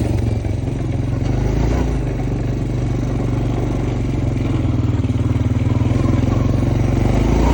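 Honda Foreman ES quad's single-cylinder engine running steadily under load while being ridden, getting a little louder near the end.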